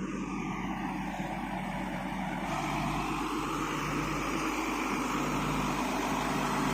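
Diesel engine of an IVECO 6x6 tractor truck running steadily under load as it pulls a trailer carrying a loader up a long climb, slowly getting louder.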